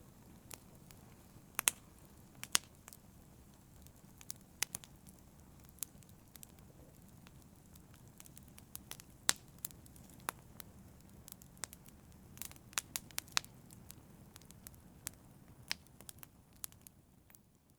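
Fire crackling: scattered sharp pops and snaps over a soft low rustle, fading out near the end.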